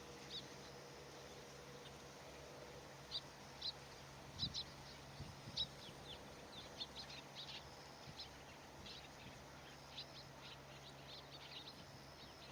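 Short, high bird chirps, scattered at first and coming more often from about halfway through.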